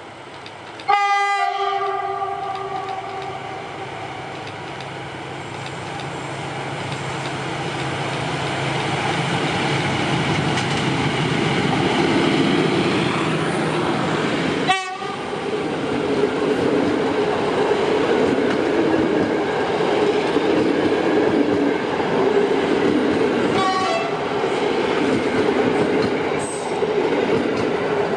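Diesel locomotive sounds its horn once, about a second in, then the diesel-hauled passenger train draws close and passes with the clatter of wheels over rail joints, giving a second short horn blast about two-thirds of the way through.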